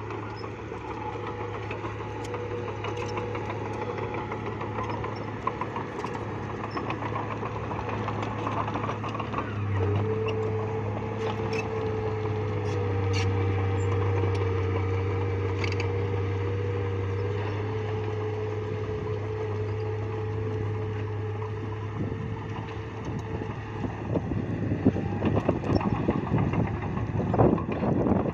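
Bulldozer's diesel engine running steadily, rising in pitch and level about ten seconds in as it takes on more throttle. In the last few seconds, rattling and knocking join in over the engine.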